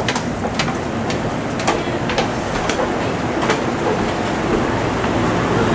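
Train running with a steady rumble and a clatter of sharp clicks, roughly two a second.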